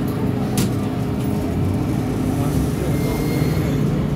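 MTR M-Train electric multiple unit running: a steady low hum with several held tones over a rumble, and one sharp click about half a second in.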